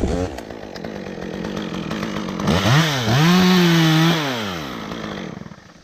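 Petrol chainsaw starting up and idling. About two and a half seconds in it is revved hard, dips once, holds at full throttle for about a second, then drops back to idle. The sound stops near the end.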